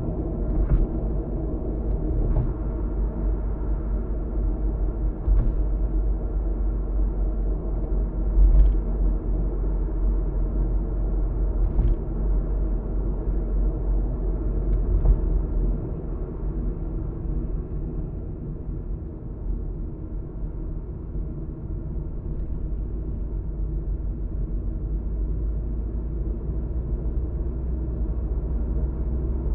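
Steady low rumble of a moving car heard from inside the cabin: road and tyre noise with the engine underneath. A few faint knocks come every few seconds, mostly in the first half.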